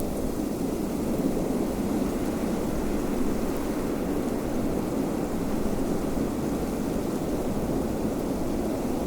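Steady wind blowing, an even low rumbling rush without gusts or breaks.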